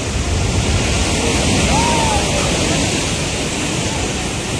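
Steady rushing noise of wind and moving water, like surf buffeting an outdoor microphone, with a faint short whistle-like tone rising and falling about two seconds in.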